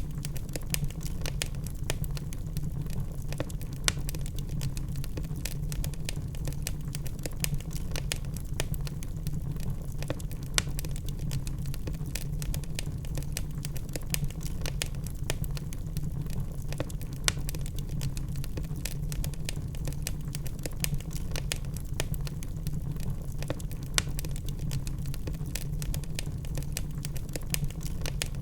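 Wood fire burning in a fireplace: dense, irregular crackling over a steady low rumble, with a few louder pops.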